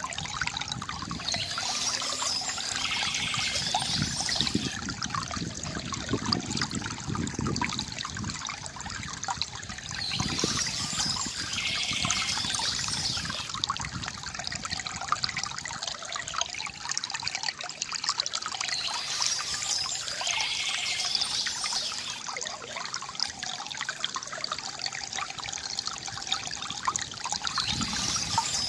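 Water from a bamboo fountain spout trickling and splashing steadily into water below, growing brighter and hissier for a few seconds about every nine seconds.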